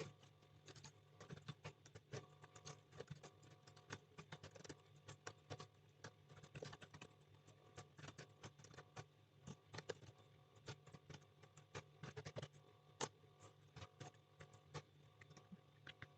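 Faint, irregular clicking of typing on a computer keyboard, several keystrokes a second with short pauses, over a low steady hum.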